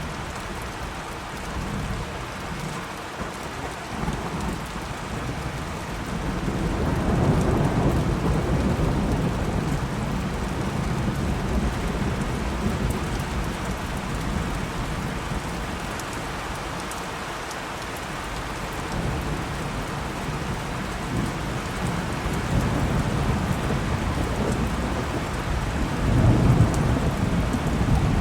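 Steady rain with rolling thunder: a low rumble swells about seven seconds in, and a louder peal comes near the end.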